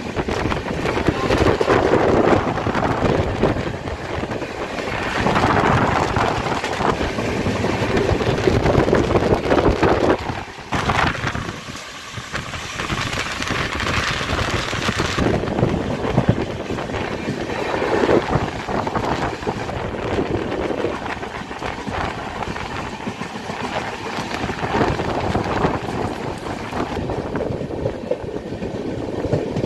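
Indian passenger train running at speed, heard from an open coach doorway: the rumble of the wheels on the rails mixed with the rush of air past the coach. The noise dips briefly about eleven seconds in.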